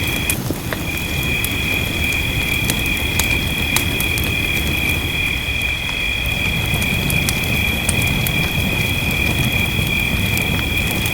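Wood fire crackling, with scattered sharp pops over a steady low rumble of rainfall. A steady high whine runs through it.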